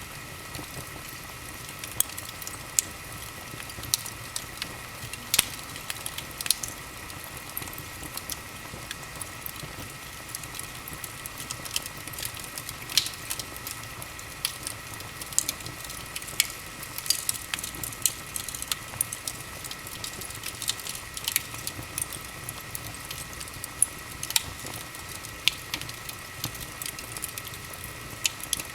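Wood fire in a fireplace crackling, with irregular sharp pops and snaps over a steady hiss.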